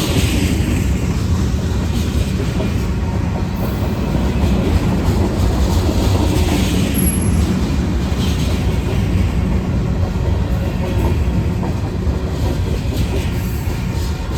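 A freight train rolling past close by: a steady, loud rumble of the cars' steel wheels running on the rails.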